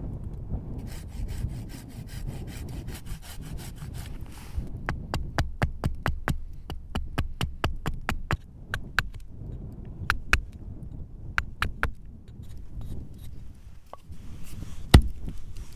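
A hand tool working a piece of wood for a carved spoon: a quick run of rhythmic scraping strokes, then a long series of sharp clicking cuts a few per second. There is one loud knock near the end.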